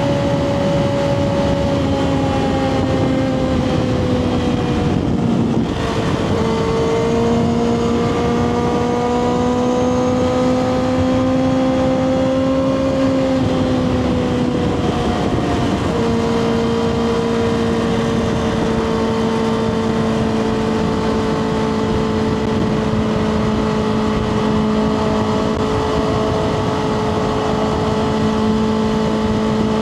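2024 Kawasaki ZX-6R's inline-four engine running through a Two Brothers slip-on exhaust while riding. The engine note drops about five seconds in, then climbs slowly. It changes again around fifteen seconds and then holds steady.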